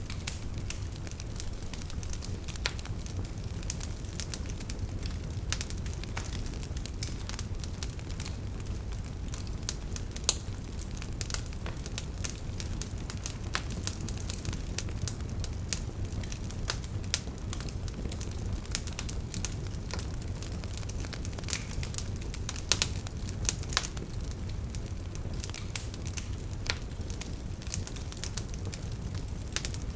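Wood campfire burning, with irregular sharp crackles and occasional louder pops from the burning firewood over a steady low rumble of the flames.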